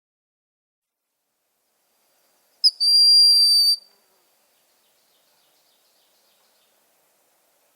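A bird giving a single high, steady whistled note lasting about a second, starting with a short sharp chirp, a little under three seconds in.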